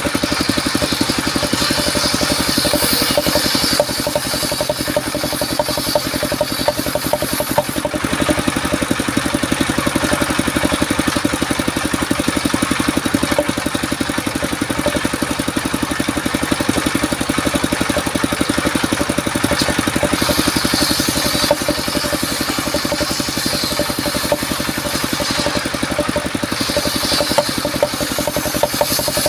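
Engine of a portable circular-saw sawmill running steadily with a fast, even firing pulse, and a higher hissing noise over it at times.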